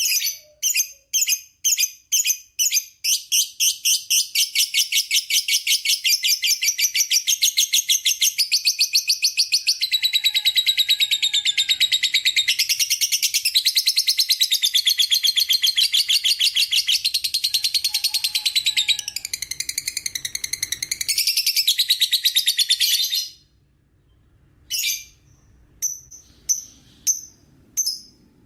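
Lovebird giving its long 'ngekek' chattering song: separate sharp, high chirps speed up into a rapid, unbroken trill lasting about twenty seconds. The trill then breaks off briefly before single chirps start again near the end.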